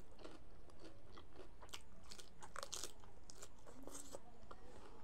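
Close-up chewing of a mouthful of rice and meat, with scattered short crunchy clicks and mouth noises.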